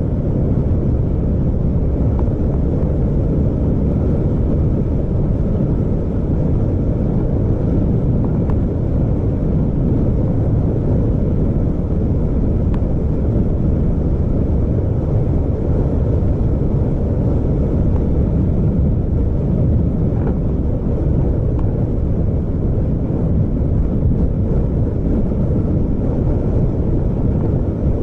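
Vehicle on the move: a steady, loud, low rumble of engine and road noise.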